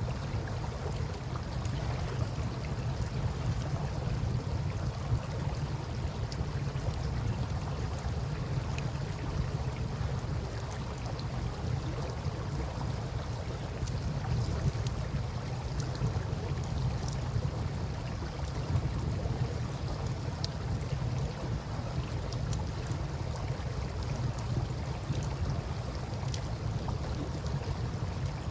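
Campfire crackling with scattered small pops over a steady low rumble of moving river water.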